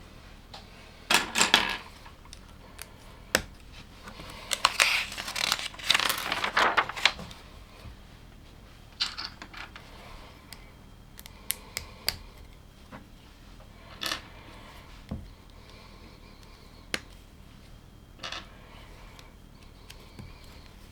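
Plastic LEGO pieces clattering and clicking: a rattle of loose pieces being rummaged through a few seconds in, with single sharp clicks and taps before and after.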